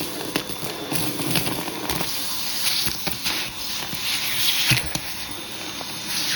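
Hoover vacuum cleaner running steadily, its hose tool pulled over a shag rug in repeated swishing strokes, with crackles as the carpet powder is sucked up.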